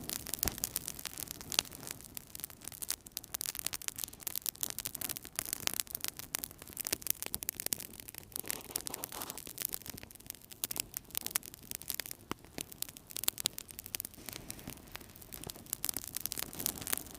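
Wood fire burning in a fireplace, crackling with many quick, irregular pops and snaps over a soft steady hiss of the flames.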